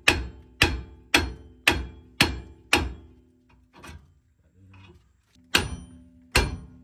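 Hammer blows on steel, six strikes about half a second apart, a pause, then two more near the end, each leaving a ringing tone. This is hammering on the truck's front suspension parts to knock them loose during the teardown.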